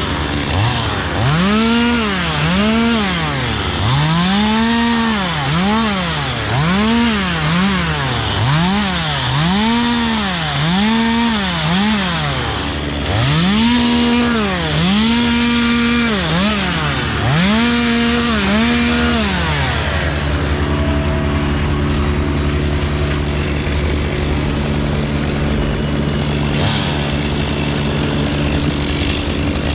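Two-stroke chainsaw revved in repeated short bursts, its pitch climbing and dropping about once a second, then running at a steadier, lower pitch for roughly the last ten seconds.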